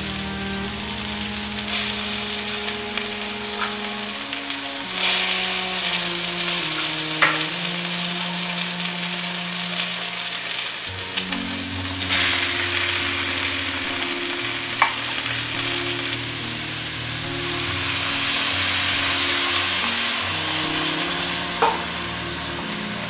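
Vegetables and tomato paste sizzling in oil in a cooking pot as they are stirred. The sizzle swells when chopped tomato drops in about halfway through, and a few sharp clicks come from utensil contact.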